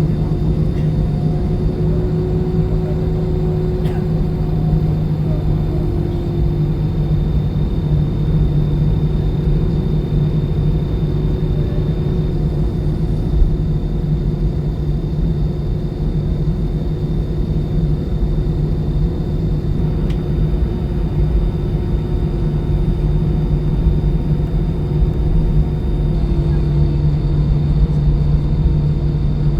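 Steady engine rumble and hum inside the cabin of an Airbus A320-214, whose CFM56 turbofans give a few constant tones over a low roar that holds at one level throughout.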